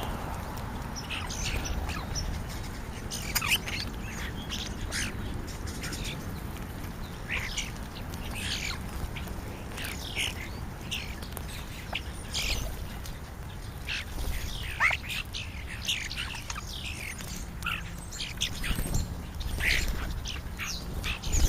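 A flock of European starlings calling at a feeding spot: a busy run of short chirps, squawks and whistles, some sliding downward in pitch, over a steady low rumble.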